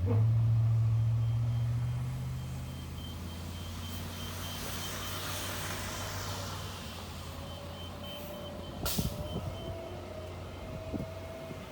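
A large vehicle, likely a truck, running close by. It is loudest in the first couple of seconds, then fades to a steady rumble. A faint high beeping runs through it, and there is a sharp click about nine seconds in.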